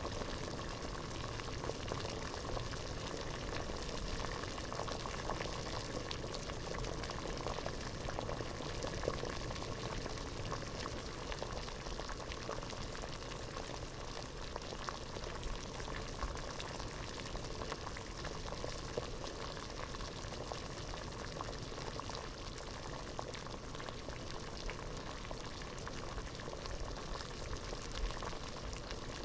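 Water boiling hard in a pot: a steady rush of bubbling with many small pops.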